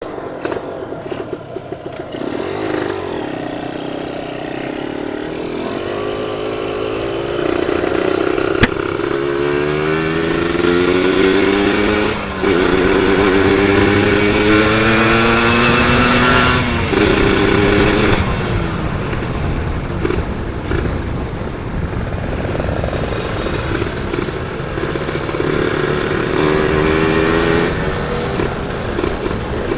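Kawasaki Ninja 150 SS-R two-stroke single-cylinder motorcycle engine accelerating under way. Its pitch climbs and drops twice at upshifts, then it cruises more evenly before pulling up in revs again near the end. There is a single sharp click partway through.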